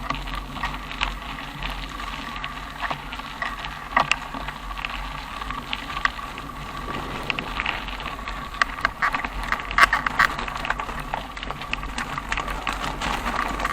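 Bicycle ride noise: irregular rattles and clicks from the moving bike, over a steady low rumble.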